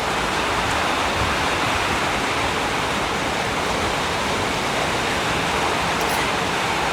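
Heavy rain pouring down steadily in a storm, an even, unbroken hiss.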